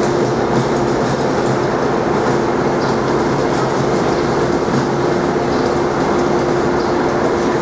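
Passenger train running at a station platform: a steady, loud rumble with a constant hum held at one pitch throughout.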